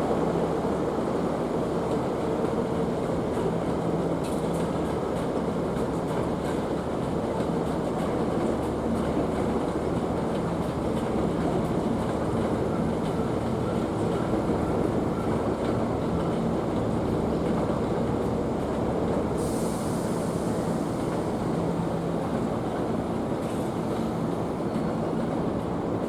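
Hankyu Kyoto Line electric train running at a steady pace, a continuous rumble of wheels on rail with a low hum. A short high hiss comes in about two-thirds of the way through.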